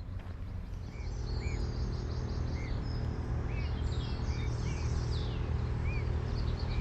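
Small birds singing: a short arched chirp repeated every half second or so, with higher twittering trills, over a loud steady low rumble.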